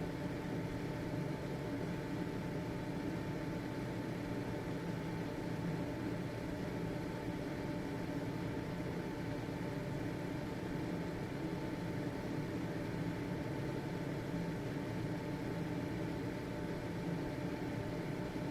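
Household ventilation fan running steadily: an even whir with a faint high hum held at one pitch.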